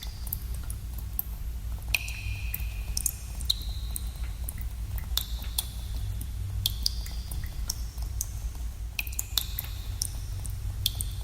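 Water drops falling into pools in a cave, each a sharp plink with a short ringing tone, irregular at about one or two a second, over a steady low rumble.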